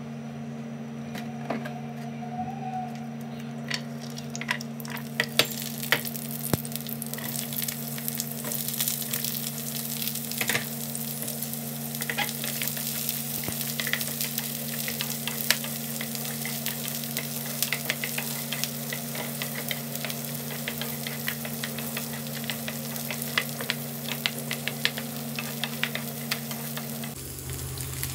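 Chopped onions, garlic, green chillies and ginger sizzling in hot oil in a non-stick pan, with the small clicks and scrapes of a wooden spatula stirring them; the sizzling builds from about five seconds in. A steady low hum runs underneath and shifts just before the end.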